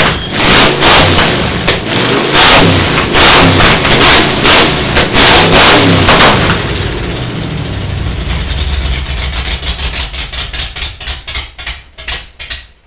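1978 Cadillac V8 running on open straight-pipe headers with no stacks, loud: blipped hard in quick repeated revs, then settling to a steadier run about six and a half seconds in. Near the end it is shut off, the firing pulses slowing and dying away until it stops.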